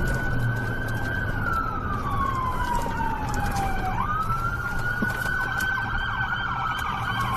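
Police car siren wailing: the pitch jumps up quickly, holds, then slides slowly down over about three seconds, twice over. A steady low hum runs underneath.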